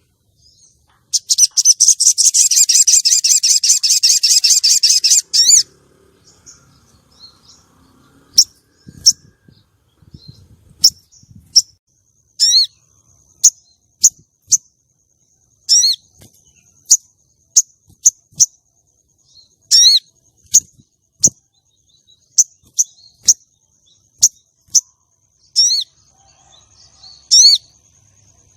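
Female crimson sunbird (sogon) calling: a rapid high trill of about four seconds, then a string of single sharp high chirps roughly a second apart. This is the female's call used to lure and rouse male sunbirds.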